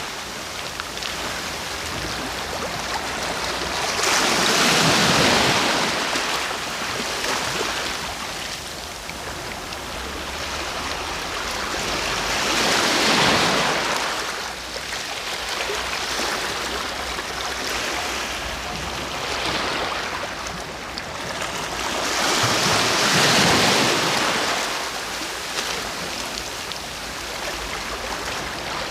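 Sea waves breaking and washing on the shore, a steady hiss of surf with larger surges about every nine or ten seconds and smaller swells between them.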